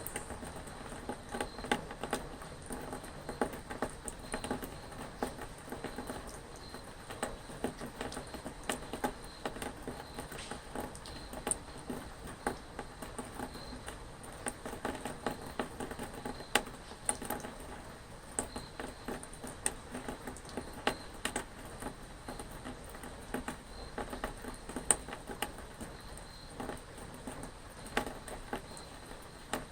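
Rain pattering, with irregular louder drops tapping sharply on a surface.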